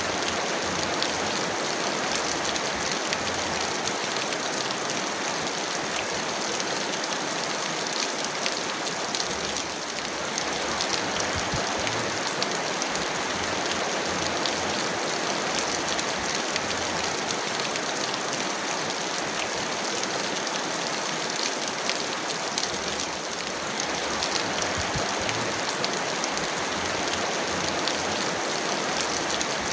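Heavy rain falling steadily, a dense even hiss with fine pattering drops, easing slightly for a moment twice.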